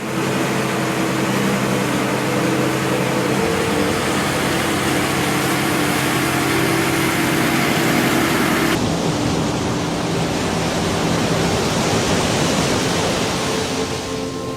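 Steady rushing noise of fast-moving tidal water and wind, with a low steady hum underneath. The sound changes abruptly about nine seconds in.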